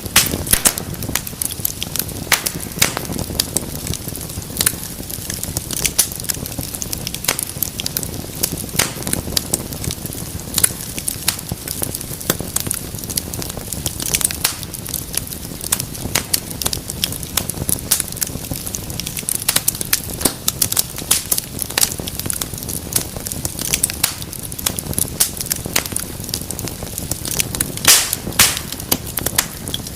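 Wood fire burning in a fireplace: a low rumble of flames with dense, irregular crackles and sharp pops throughout.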